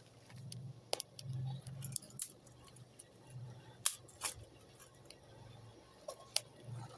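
Small wood fire of thin sticks crackling, with irregular sharp pops and clicks over a low rumble that comes and goes.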